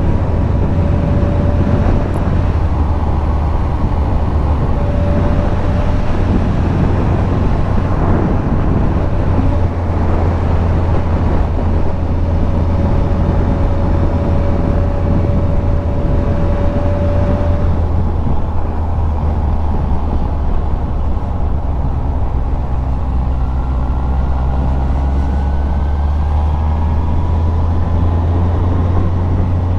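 Yamaha FZS1000 Fazer's inline-four engine running steadily under way, heard from the bike with wind noise, its pitch rising gently in the last few seconds.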